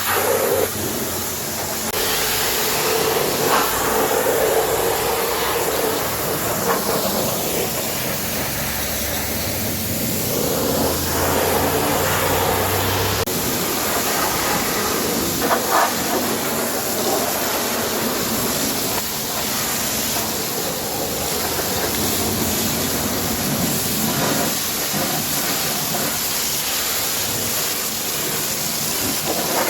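Pressure-washer jet spraying water against a truck: a steady hiss whose tone shifts as the spray moves over different surfaces, with a few brief clatters.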